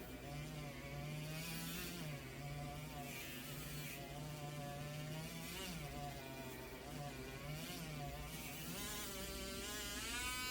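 A small electric motor running continuously with a buzzing whir, its pitch wavering up and down as the load on it changes.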